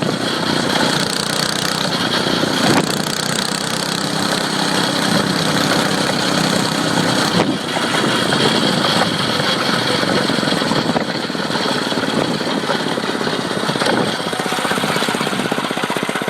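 Small dirt bike engine running, holding a steady pitch for several seconds, easing off about seven seconds in, then settling into a fast, even putter toward the end.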